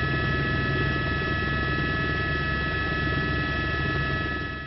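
Steady mechanical drone of an engine, with a rapid low flutter under it and a steady high-pitched whine of several tones, fading out at the very end.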